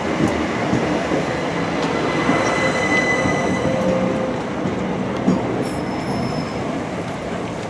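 Southeastern Class 375 Electrostar electric multiple unit running past on the track, with steady wheel and rail noise that eases slightly near the end. Brief thin squeals sound from the wheels, one in the middle and a higher one about six seconds in.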